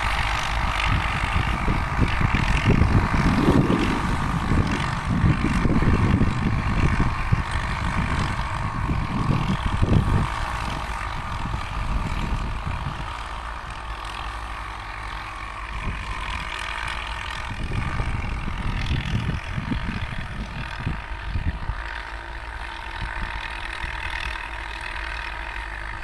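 Ford farm tractor's diesel engine running steadily, with irregular low rumbling that is louder for about the first ten seconds.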